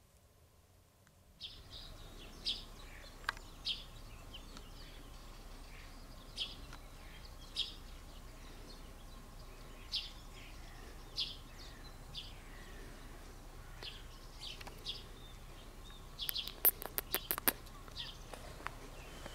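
A bird chirping, short high calls repeated every second or so over faint steady background noise. About three-quarters of the way through comes a quick run of sharp clicks.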